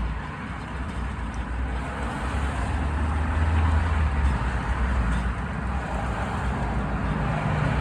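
Steady outdoor road-traffic noise, a low rumble of passing vehicles that swells a little midway.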